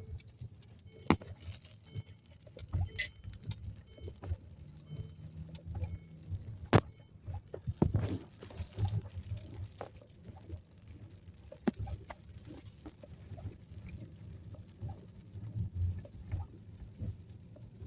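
Inside a car being driven through a heavy rainstorm: a low, uneven rumble from the car on the wet road, with scattered sharp clicks and small rattles throughout.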